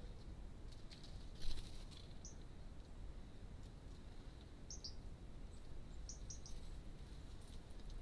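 Small songbirds giving short, high chirps, singly and in quick runs of two or three, over a low steady outdoor rumble. A brief, louder scratchy sound about a second and a half in.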